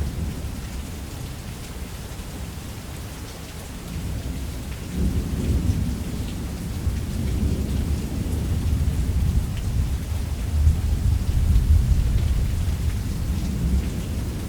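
Thunderstorm: steady heavy rain with low rolling thunder that eases off, swells again about five seconds in, and rumbles loudest near the middle of the last stretch.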